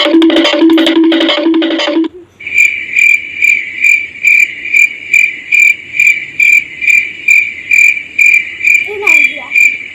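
Cricket chirping sound effect, with evenly spaced high chirps about twice a second that start abruptly about two seconds in. Before it there is a low, pulsing buzz.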